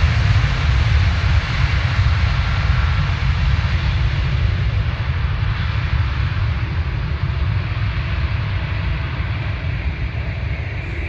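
Airliner engine noise, a steady roar that eases slowly over the seconds.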